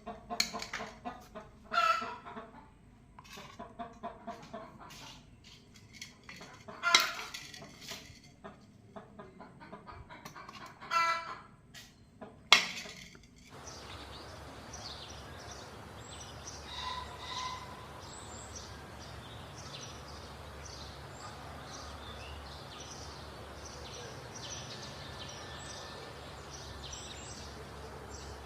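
Chickens clucking, with several louder calls standing out, for about the first half. Then the sound changes abruptly to a steady outdoor hiss with many short, high chirps.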